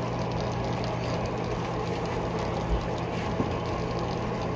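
Steady rush of rain and running water after a thunderstorm, with a low, even hum underneath and one soft thump near the middle.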